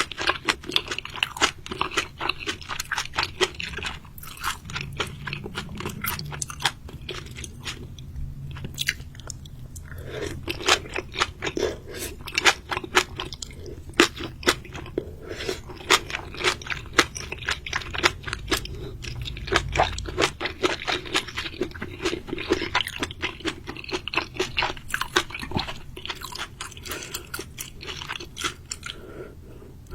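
Person chewing and biting seafood, with many sharp crunches in quick succession and a brief pause partway through.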